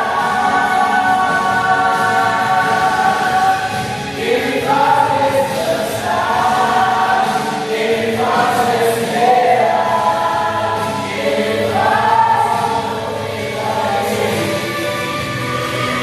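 A church choir singing a gospel hymn in sustained notes that move to a new pitch every second or two.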